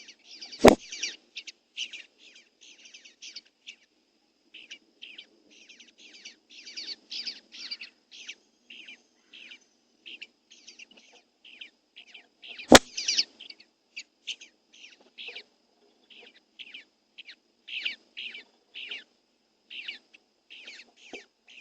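Small birds chirping rapidly in short high notes, about two or three a second, throughout. Two sharp clicks stand out, one about a second in and one about halfway through.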